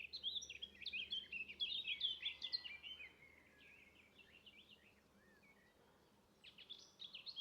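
Songbird birdsong: a quick run of high chirps and trills for about three seconds, then fainter scattered notes, and another brisk burst near the end.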